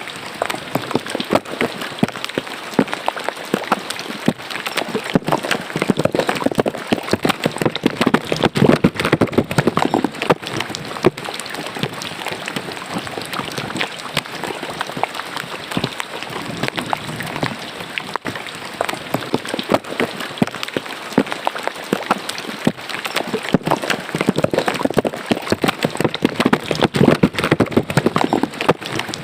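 Rain falling into a roadside drain, its water splashing and trickling in a dense, steady patter of drops. The splashing swells fuller twice, about a quarter of the way in and again near the end.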